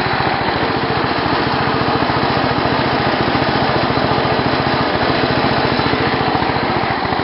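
Small racing tractor's engine running steadily just after its first start of the year, with rapid, even firing pulses.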